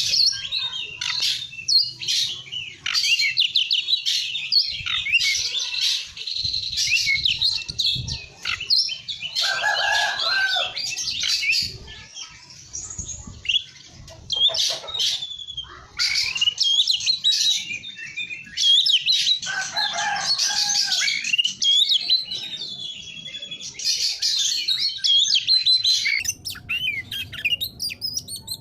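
Oriental magpie-robin (kacer) singing a fast, varied song of whistles and trills, with short lower, harsher phrases about ten and twenty seconds in.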